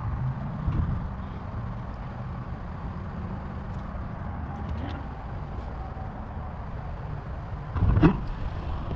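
Truck engine idling steadily with a low rumble, running smoothly now that new spark plugs and a coil have cured its misfire. A single knock sounds about eight seconds in.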